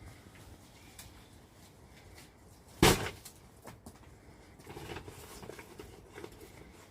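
A single sharp knock about three seconds in, followed by a run of softer clattering and knocking.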